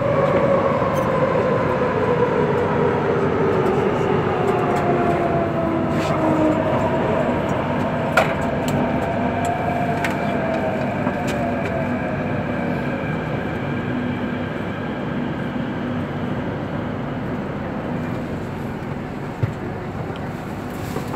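MTR C-Train metro electric multiple unit running in the tunnel, its motor whine sliding down in pitch and the rumble easing as the train slows. There are a couple of sharp clicks, about 8 seconds in and near the end.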